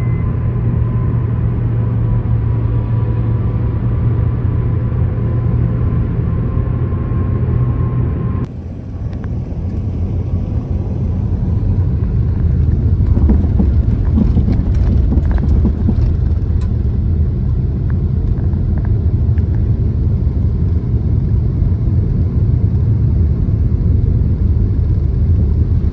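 Car road noise heard from inside the cabin while driving: a steady low hum with a faint whine. About eight seconds in it changes abruptly to a louder, rougher rumble with scattered knocks and rattles, as the car runs over a rough back road.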